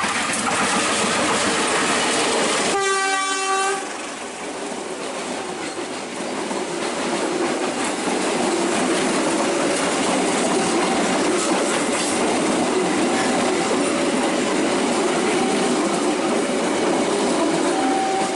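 Train running past with continuous wheel and rail noise. A train horn sounds once for about a second, about three seconds in.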